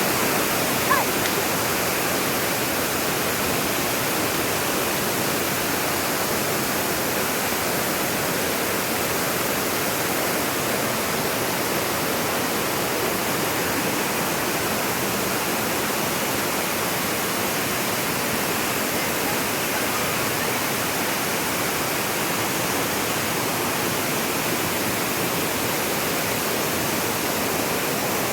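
Waterfall pouring: a steady, even rush of falling water, with one brief click about a second in.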